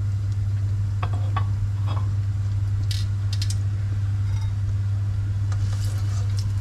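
A steady low hum under faint crackling of a battered eggplant slice frying in oil, with a few light clicks and taps scattered through, a cluster of them near the end as a wire mesh skimmer goes into the pan.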